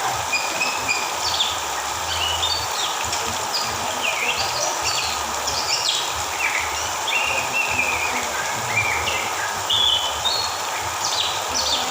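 Oriental magpie-robin (kacer) singing a varied run of short whistles and chirps, some sliding up or down in pitch, over a steady rushing background noise.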